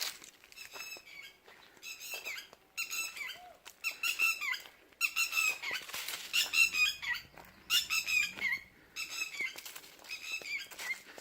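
Quail calling in quick runs of high, squeaky chirps, about two runs a second, throughout.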